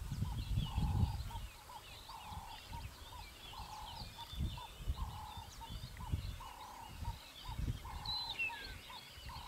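Birds calling: one bird repeats a short low call over and over, while others twitter and chirp higher up. Gusts of low wind rumble come through, strongest at the start.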